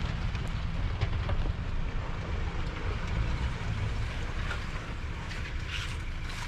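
Toyota LandCruiser 200 series V8 running at low revs while crawling slowly over rocky ground, a steady low rumble with occasional light clicks and wind on the microphone.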